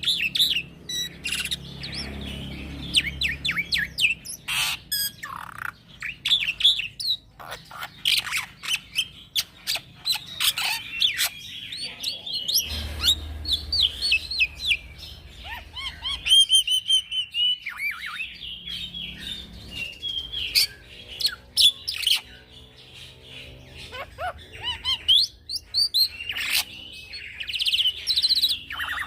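Young black-winged myna (jalak putih) singing without pause: a fast, varied run of chirps, squeaky whistles, quick rising and falling glides and harsh rasping notes.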